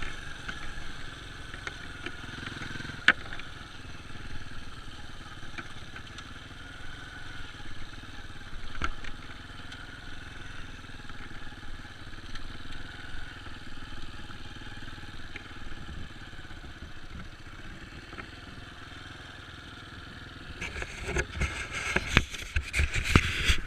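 Dirt bike engine running steadily, with a few sharp clicks; the engine noise turns louder and rattly in the last few seconds.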